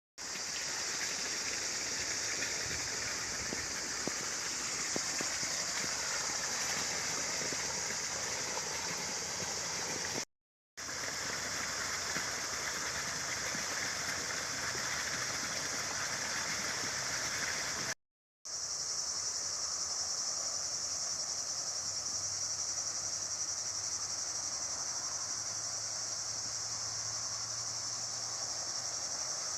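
Steady high-pitched chorus of insects, crickets or cicadas, with a fainter hiss beneath. It cuts out to silence twice, briefly.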